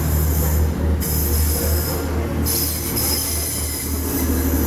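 TransPennine Express Class 185 diesel multiple unit moving along the platform: a steady low engine hum under a high-pitched metallic squeal that cuts out briefly about a second in and again around two seconds in.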